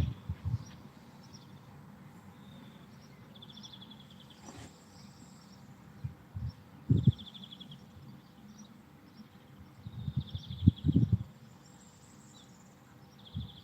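Small bird singing a short, rapid trill that repeats every few seconds over a faint field background. Several loud low rumbles of wind buffeting the microphone come in between, strongest about two thirds of the way through.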